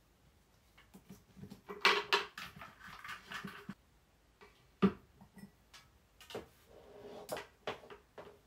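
Handling noises: a run of clicks and light knocks with rustling or scraping between about two and four seconds in, then one sharp knock about five seconds in and a few softer knocks after it.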